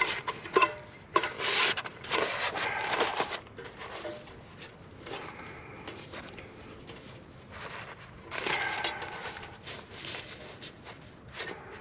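Rustling and scraping with a few light clicks as a Solo Stove 2-person backpacking stove is handled and taken out of its fabric pouch.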